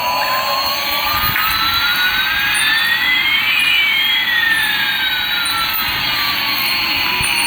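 Toy Airbus A380's electronic jet-engine sound effect: a steady hiss with one whine slowly rising in pitch while another falls, the two crossing midway.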